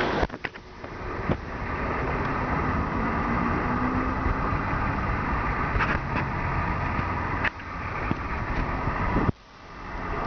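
Steady rushing vehicle and wind noise with a faint hum that rises and falls, broken by a few clicks and sudden drops in level that swell back up.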